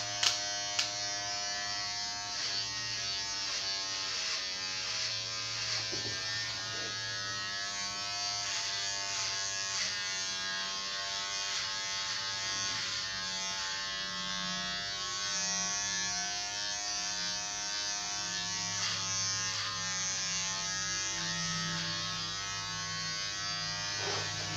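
Electric hair clippers running steadily with a buzzing hum, the pitch wavering slightly as they work; a few sharp clicks right at the start.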